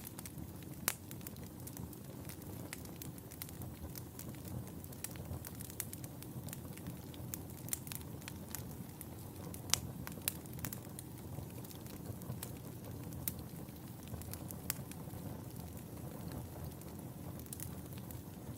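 Wood fire in a fireplace crackling: frequent sharp pops and snaps over a low, steady rush of flame. Two louder pops stand out, about a second in and about ten seconds in.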